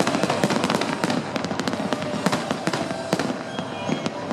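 Aerial fireworks display: many sharp bangs and crackles from shells bursting in quick succession, over a continuous hiss.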